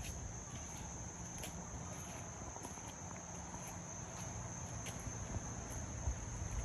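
Steady high-pitched chirring of crickets, with a low hum underneath and a few faint ticks.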